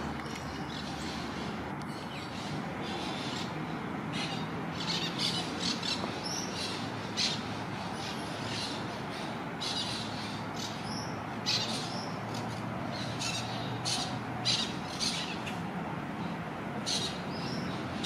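Birds calling in short, sharp high calls, one or two a second at irregular intervals, over a steady background hum.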